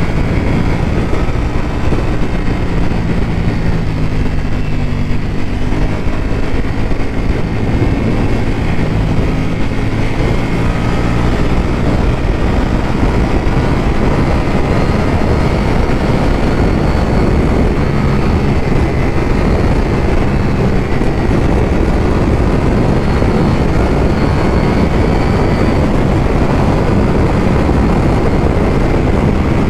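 Ducati V4 motorcycle engine running while riding, with a steady note whose pitch shifts now and then, under a constant rush of wind and road noise.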